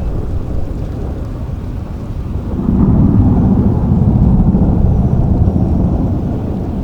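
Steady rain with a low roll of thunder that swells about two and a half seconds in and fades slowly toward the end.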